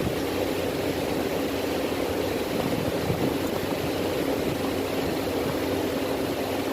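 A steady mechanical drone, like an engine or motor running without change.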